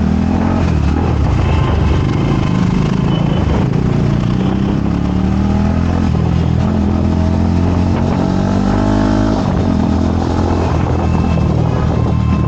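Motorcycle engine running under way, revving up and easing off several times, its pitch climbing and then dropping back.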